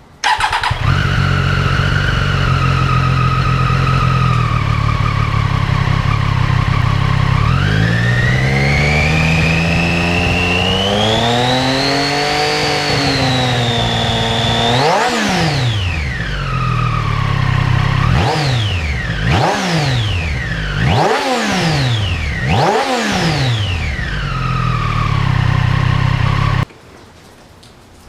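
Triumph Street Triple 765 RS three-cylinder engine idling, then revved slowly up and back down, then blipped sharply four or five times, dropping back to idle each time. The sound cuts off abruptly near the end.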